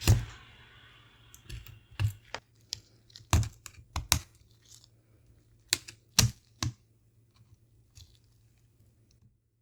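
Irregular sharp clicks and taps of small plastic parts and tools being handled while a Nintendo DSi XL handheld is taken apart, about a dozen in all, the loudest bunched around two, three to four, and six seconds in.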